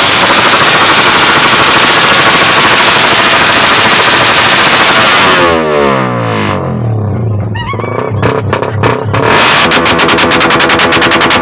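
Suzuki Satria F150 motorcycle engine revved hard on its stand: held at high revs, then the revs fall away about halfway through with scattered pops, and it is revved back up into a rapid, even stutter near the end.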